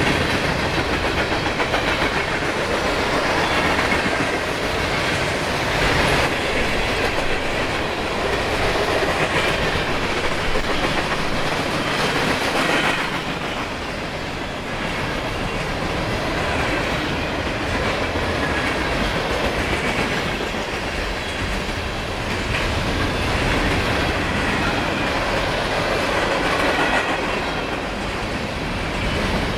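A freight train's cars rolling steadily past on the main line, a continuous even rolling noise with no horn.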